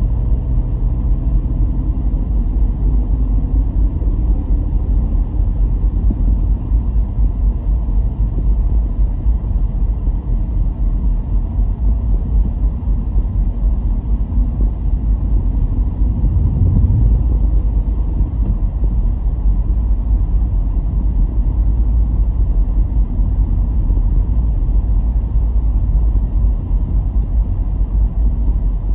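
Car driving along the road: a steady low rumble that swells briefly a little past halfway.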